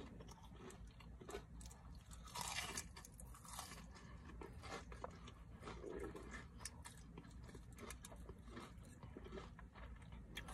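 Faint close-up chewing of food, with many small wet mouth clicks and some crunching; a louder bite or crunch comes about two and a half seconds in.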